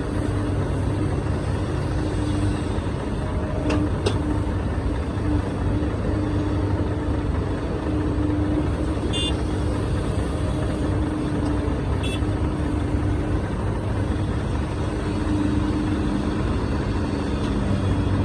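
Large soil-hauling truck's engine running steadily, a low, even hum with a few faint clicks.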